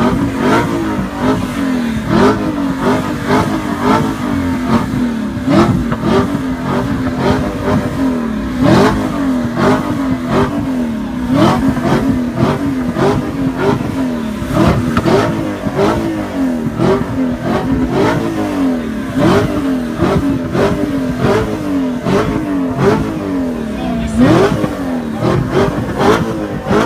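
Car engines being revved over and over, with throttle blips rising sharply in pitch and falling back, one after another, over a steady engine note.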